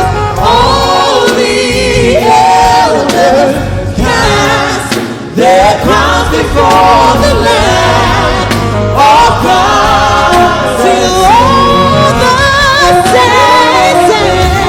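Gospel worship music: a group of voices singing with band accompaniment.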